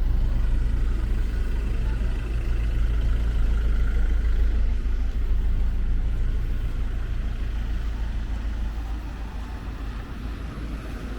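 A motor vehicle's engine and tyre rumble close by, loudest in the first few seconds, then fading gradually as it moves away.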